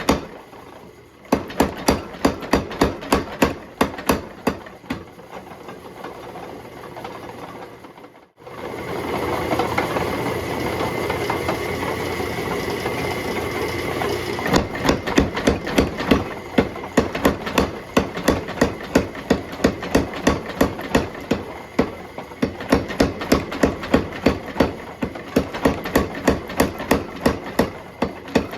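Hammer blows on steel being forged, struck in a steady rhythm of about three a second. About a third of the way in the blows stop for several seconds and a steady rushing noise takes over, and then the hammering starts again.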